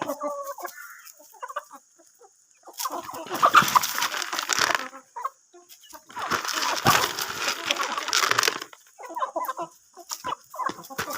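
A flock of chickens clucking in four loud bursts, with short quiet gaps between them.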